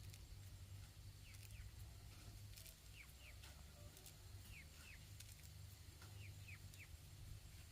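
Faint bird calls: short falling chirps in pairs, four pairs in all, over a low steady rumble.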